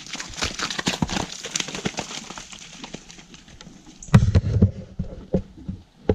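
Horse hooves walking on a wet, muddy trail: irregular clops and squelches. A louder low thud about four seconds in.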